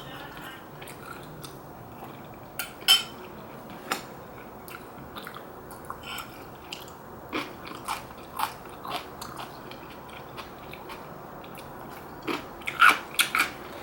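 Close-miked mouth sounds of someone eating rice cake and dumpling soup: chewing with many short wet clicks, a few sharper ones about three seconds in and a cluster near the end.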